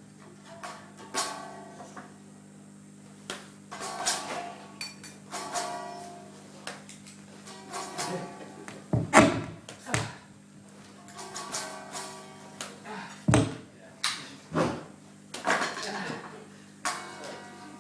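Live experimental music: sparse, irregular sharp sounds, each ringing out briefly, over a steady low hum.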